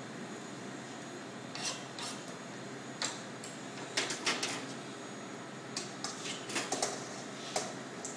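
Small carving knife cutting into watermelon rind: a series of short, crisp scrapes and clicks at irregular intervals, clustered around the middle and latter part.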